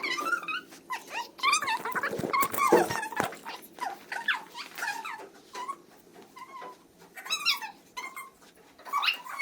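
Dog whimpering and yipping in many short, high-pitched cries that bend in pitch, with a louder cry reaching lower about three seconds in.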